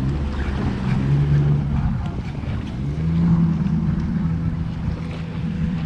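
Jet ski engine running steadily on the water, its pitch rising a little about halfway through.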